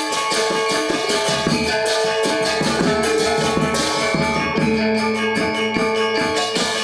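Balinese gamelan gong ensemble playing a classical lelambatan piece: bronze metallophones and gongs ringing in rapid, dense strokes over a low, sustained gong and drum tone.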